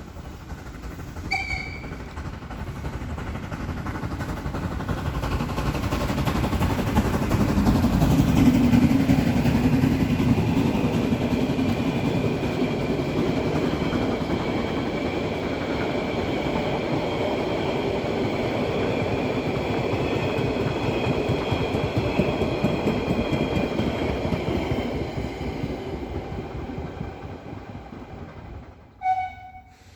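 Molli narrow-gauge steam train passing: it grows louder as it approaches, rolls past for a long stretch with a steady rumble and clatter of wheels on rails, then fades away. A short high tone sounds about a second and a half in, and another comes near the end.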